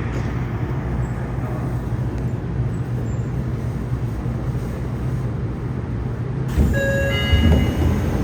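Yokohama Blue Line 3000N subway train running, a steady low rumble of wheels and running gear heard from inside the car. Near the end the sound brightens and a whine of short tones stepping up in pitch comes in, typical of the train's Mitsubishi IGBT-VVVF inverter.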